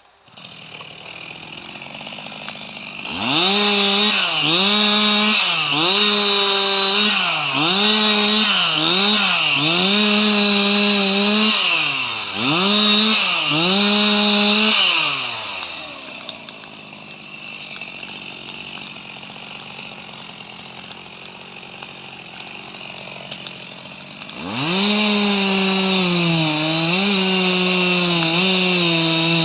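Two-stroke chainsaw revving up from idle and running at high revs, its pitch dipping and recovering again and again as it cuts wood. It drops back to a quieter idle for several seconds, then revs up again near the end.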